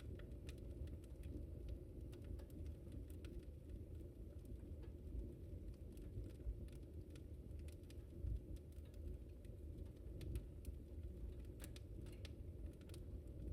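Wood fire crackling in a fireplace: irregular small pops and snaps over a steady low rumble of burning.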